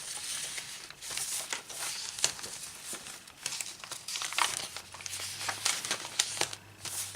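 Paper pages of a handmade journal being handled and turned: rustling and crinkling with frequent short flaps and clicks as pages and fold-outs are flipped.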